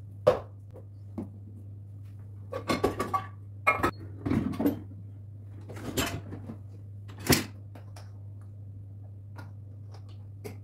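Kitchen cleaning sounds: scattered knocks and short bursts of clattering as things are handled and set down, with two sharp knocks standing out, over a steady low hum.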